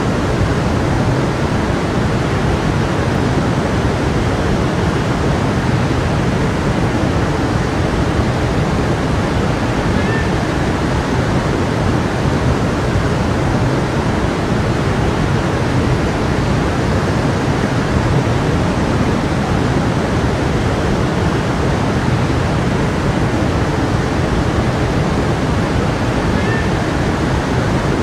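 Stream water rushing in a steady, unbroken flow.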